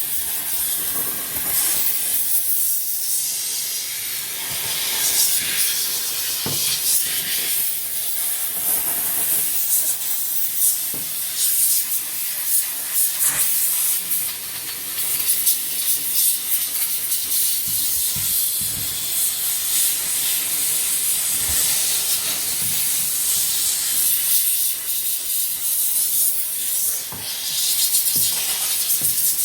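Kärcher SC2 steam cleaner jetting steam: a continuous hiss that swells and dips, with a few faint knocks.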